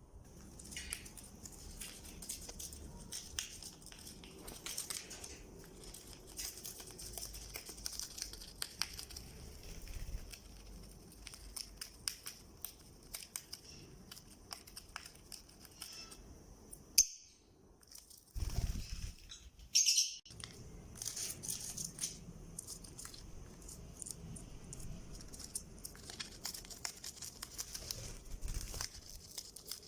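Fischer's lovebirds tearing and rustling nesting material: a busy run of small clicks, crinkles and tearing sounds, with a short, louder, high-pitched sound about twenty seconds in.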